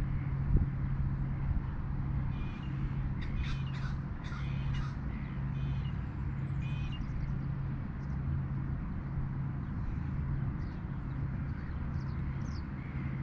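Harsh cawing bird calls: a run of several caws about three to five seconds in, then fainter, scattered calls. A steady low hum runs underneath.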